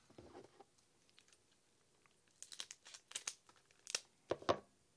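Foil booster pack wrapper crinkling and tearing open, a quick run of crackles starting about halfway through.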